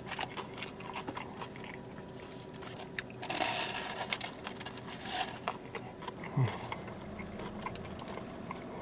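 Close-up eating sounds: a man bites into and chews a cheesesteak on a crusty Italian roll, with a denser tearing bite about three seconds in and small mouth clicks throughout.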